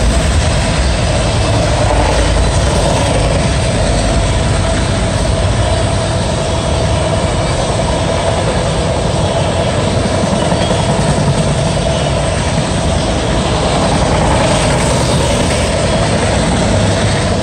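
CSX autorack freight cars passing at high speed: a steady, loud rush of wheels on rail, with a steady ringing tone running through it.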